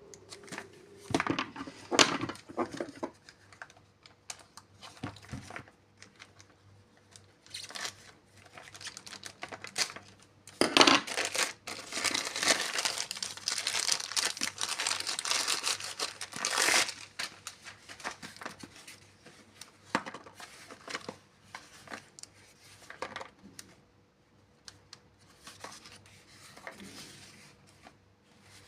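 Packaging being torn open and crinkled by hand, in irregular bursts of rustling and tearing, busiest and loudest about halfway through.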